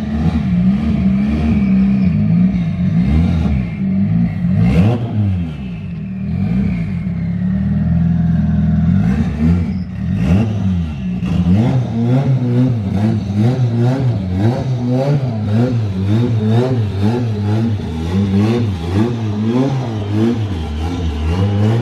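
Turbocharged KA24DET 2.4-litre four-cylinder of a Nissan 240SX running and being revved as the car is driven slowly up onto a trailer, its pitch rising and falling again and again, in quick repeated throttle blips through the second half.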